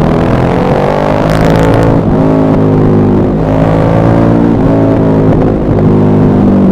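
KTM 1190 Adventure R's 1195 cc LC8 V-twin, through an aftermarket Wings exhaust, revving up and down through the gears on a downhill run. The revs climb in the first second and a half, with a brief exhaust crackle, then drop and rise again several times with each gear change and throttle roll-off.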